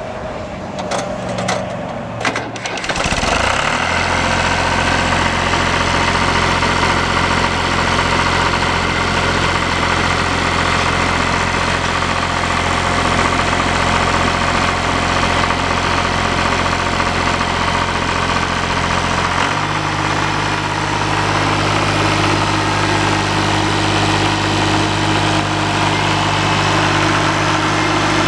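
John Deere 2355N tractor's three-cylinder diesel engine cranking on the starter for about three seconds, then catching and settling into a steady idle. About two-thirds of the way through it is throttled up and runs steadily at a higher speed.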